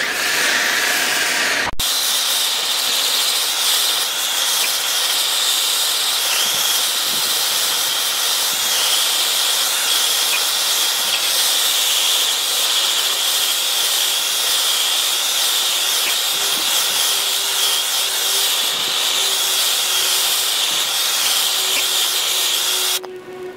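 A gas burner flame hissing steadily and loudly, starting about two seconds in after a cut and stopping just before the end. A faint steady low tone joins it in the second half.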